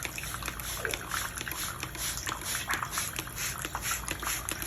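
Kitchen tap water running and splashing into the sink in a rapid, irregular patter as a Goffin's cockatoo plays in the stream.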